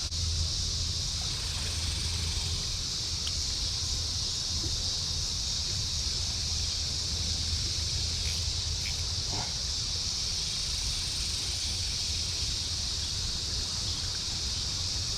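Steady, unbroken high-pitched insect chorus, with a low steady rumble underneath and a few faint clicks.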